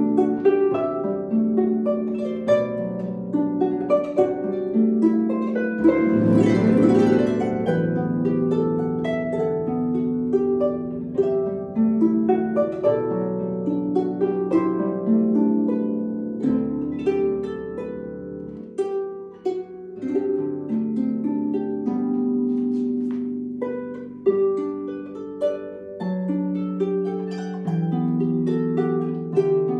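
Harp playing a solo piece, plucked notes ringing in a flowing melody over lower bass notes, with a brief bright rushing sweep about six seconds in.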